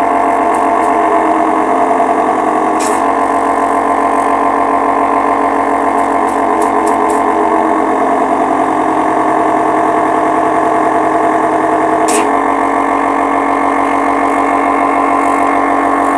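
Compressor nebulizer's electric air compressor running steadily with a loud hum after being switched on, its top cover off; the repaired machine is working again. Two brief clicks come through, about 3 and 12 seconds in.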